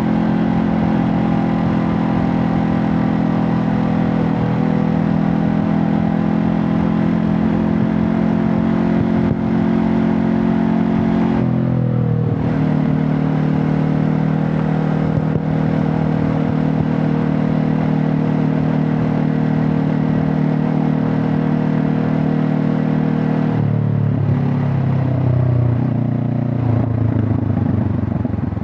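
Honda CB500 Hornet's parallel-twin engine and exhaust under way at a steady speed, with a drop in engine pitch about twelve seconds in at an upshift. Near the end the revs fall in steps as the bike slows.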